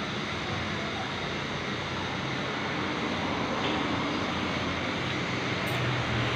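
Suzuki Satria FU 150 single-cylinder engine running steadily at idle in a workshop, test-run just after its clutch-side part ('temeng') was replaced.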